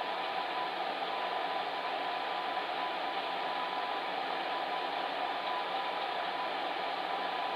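Electric fan heater running steadily: an even whooshing rush of blown air with a faint constant hum.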